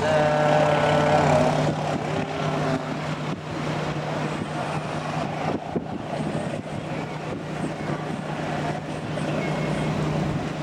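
A steady low engine hum over a noisy background. A higher pitched tone with several overtones sits on top of it for about the first two seconds, then stops.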